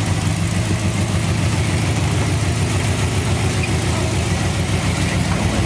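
Off-road vehicle's engine idling steadily close by, with no revving.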